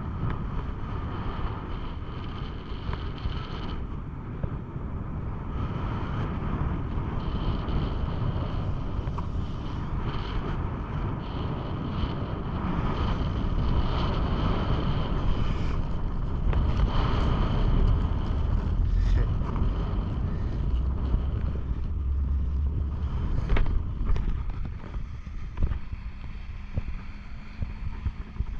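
Wind buffeting the microphone of a camera carried high up on a parasail, a steady low rumble that grows heavier about halfway through and eases near the end.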